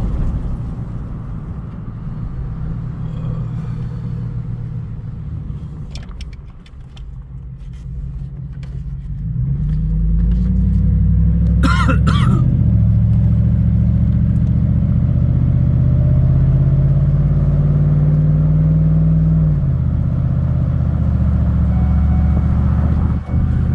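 Pickup truck engine and road noise heard from inside the cab: running steadily, easing off around six seconds in, then accelerating with the engine pitch rising around nine to ten seconds in and holding steady under load. A brief high squeal sounds about twelve seconds in.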